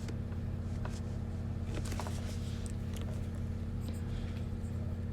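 Steady low hum with a few faint pencil strokes scratching on paper, the clearest about two seconds in.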